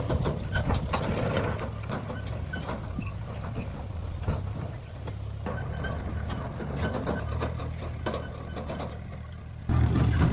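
An engine running steadily, with scattered clicks and knocks of work over it; it gets suddenly louder near the end.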